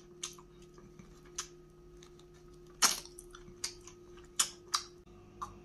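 Close-up eating sounds of someone gnawing meat off a smoked pork rib bone: a scattering of short, sharp clicks and wet smacks from the mouth and teeth on the bone, the loudest about three seconds in.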